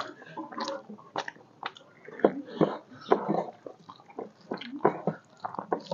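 Open-mouth chewing and lip smacking of a mouthful of rice and curry eaten by hand: irregular wet smacks, about three a second.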